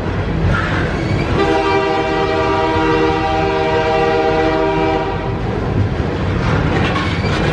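Locomotive horn sounding one long blast of about four seconds, starting about a second and a half in, over the steady low rumble of a train.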